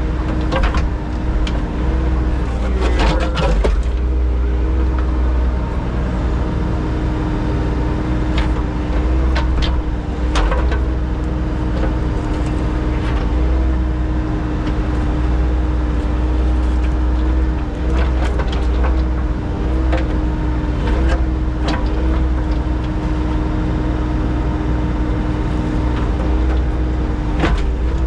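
Engine of a piece of earthmoving equipment running steadily at a constant speed, with scattered sharp knocks and clanks over it.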